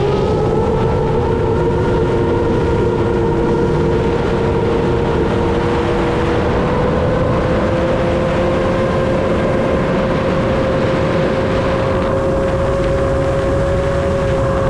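7-inch FPV quadcopter in flight: its brushless motors and propellers give a steady whine that drifts slowly up in pitch, over a loud low rush of noise.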